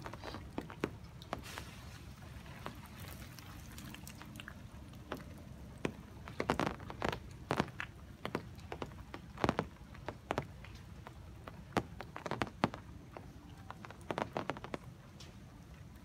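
Raindrops dripping from the trees as scattered, irregular taps and ticks, some bunched into short runs, over a low steady rumble.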